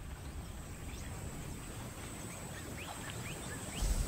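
Outdoor natural ambience: a steady soft hiss with a few short, rising bird chirps in the second half. A deep low rumble starts near the end.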